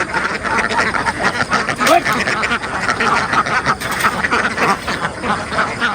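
A large flock of domestic ducks quacking continuously, many calls overlapping into a dense chorus.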